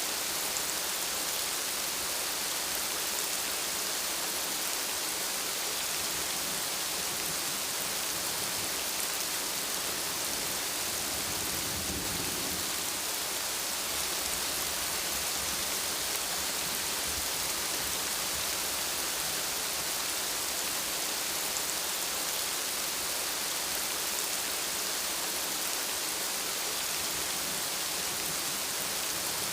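Steady, even rainfall pattering on surfaces, with a brief low rumble of distant thunder partway through.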